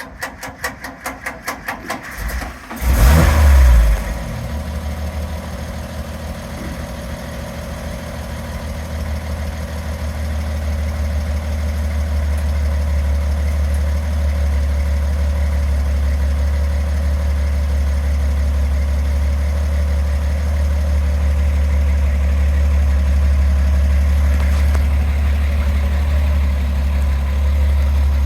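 1956 International fire truck engine cranking on the starter for about two seconds, catching with a loud burst of revs, then settling into a steady idle.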